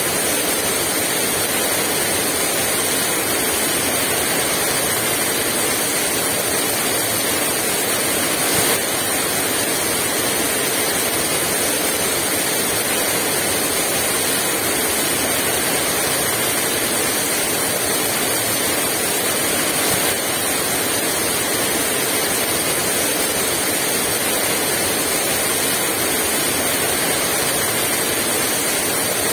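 Heavy rain pouring down steadily, with no wind.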